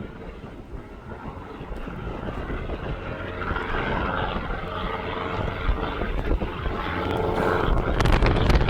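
Aircraft engines growing steadily louder as a plane approaches, with a steady whine over the engine noise. Wind buffets the microphone near the start and again near the end.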